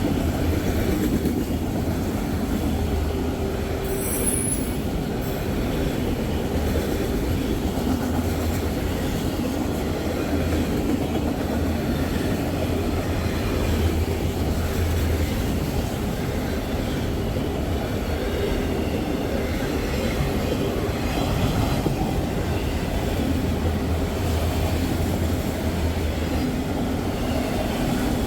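Freight train rolling past, a steady rumble of its cars' wheels on the rails.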